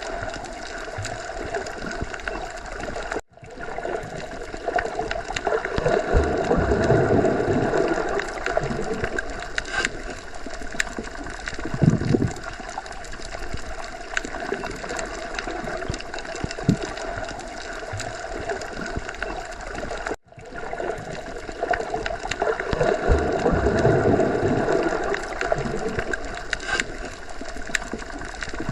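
Underwater ocean ambience: a continuous muffled wash of water that swells and fades, with occasional low thuds. The same stretch repeats about every 17 seconds, each repeat starting after a brief dropout.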